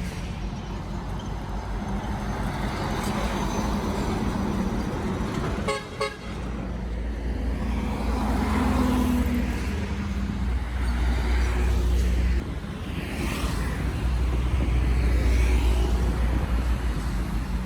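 Highway traffic: trucks and cars passing with a steady low engine rumble and road noise, and a vehicle horn sounding. There is a brief drop-out about six seconds in.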